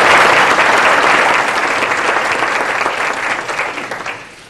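Audience applause, many people clapping, fading out steadily over a few seconds.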